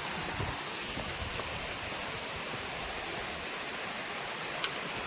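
Steady rush of flowing water, with a single short click near the end.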